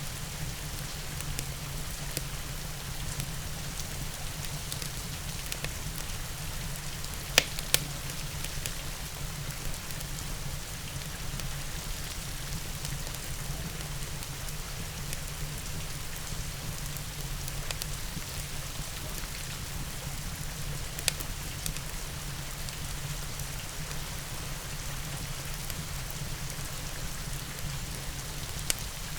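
Steady rain hiss mixed with a fireplace, with a few sharp pops from the fire: a loud pair about seven seconds in and single ones later on.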